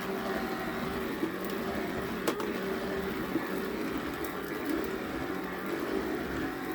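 Small electric motor of a cordless powered carpet sweeper running steadily with an even hum.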